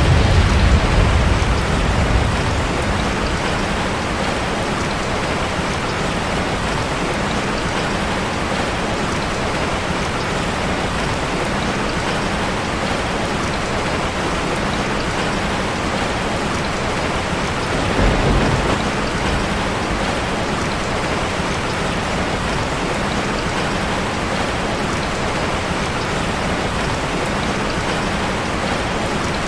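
Steady rain drumming on a metal roof, an even hiss with no letup. Low rumbles swell under it at the very start and again about 18 seconds in.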